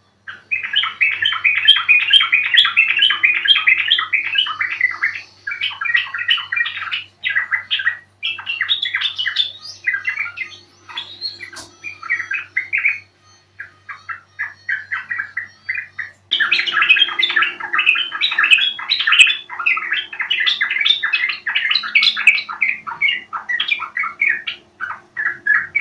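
Yellow-vented bulbul (trucuk) chattering song: rapid bubbly notes in dense runs, thinning out in the middle and packing close again after about sixteen seconds.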